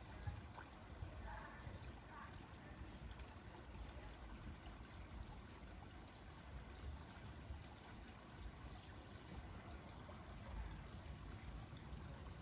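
Faint, steady trickle of running water in a garden koi pond.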